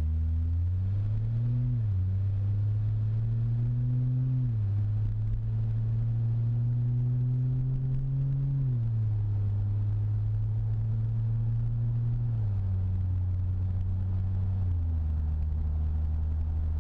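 Ford Fusion Sport's 2.7 L twin-turbo V6, heard from inside the cabin through a Magnaflow axle-back with both resonators deleted, pulling through the gears. The low exhaust note rises with the revs and steps down in pitch five times as the transmission shifts up, settling into a steady hum in the 1700 to 2000 RPM range where it is loudest, though not really a drone.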